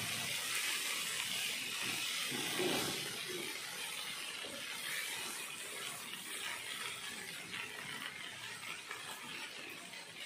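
Okra and grated coconut sizzling gently in a nonstick pan as a wooden spatula stirs them, with soft scrapes and knocks of the spatula. The hiss is steady and slowly fades.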